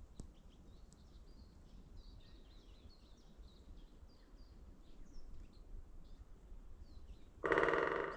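Faint bird chirps over a low wind rumble, then near the end a loud creak of a tree, lasting under a second.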